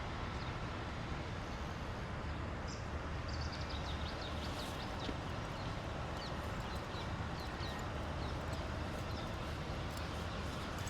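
Steady low city-traffic rumble, with small birds chirping repeatedly from about three seconds in.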